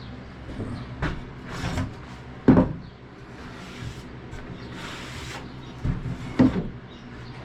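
Wooden table parts being handled and set down: a few knocks of wood on wood, the loudest about two and a half seconds in, a brief scrape around five seconds, and two more knocks near the end.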